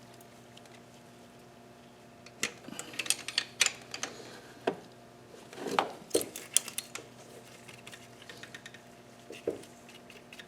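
Scattered light clicks and clinks of metal parts and hand tools being handled while working on an engine's intake, in short clusters over a steady faint low hum.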